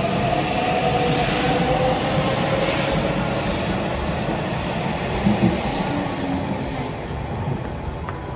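Nishitetsu electric train pulling out of the station: a faint rising motor whine over wheel and rail noise, which fades toward the end.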